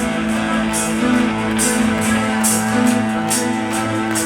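Live rock band playing an instrumental passage, led by guitar, with a steady beat and no singing.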